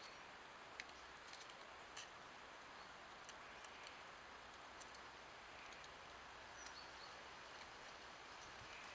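Near silence outdoors: a steady faint hiss with scattered faint, short, high bird chirps. Two light clicks about one and two seconds in.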